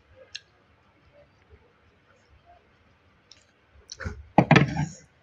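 Close-up eating mouth sounds: faint wet clicks and smacks of chewing, with a louder cluster of smacks and clicks about four seconds in.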